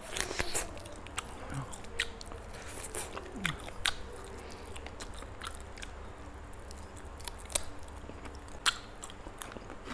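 A person chewing and biting roasted chicken close to the microphone, with irregular sharp clicks and crunches every second or so.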